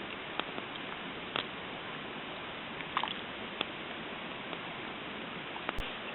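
Wood campfire crackling: a steady hiss with scattered sharp pops about once a second.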